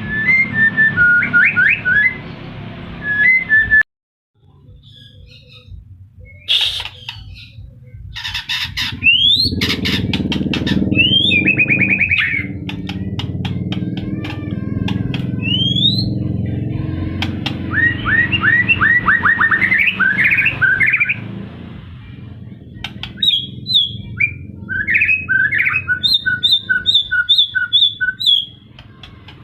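White-rumped shama (murai batu) singing: a long run of varied whistled phrases, quick rising slurs, rapid trills and repeated clear notes. There is a sudden cut to silence about four seconds in, and a low background hum under the song through the middle.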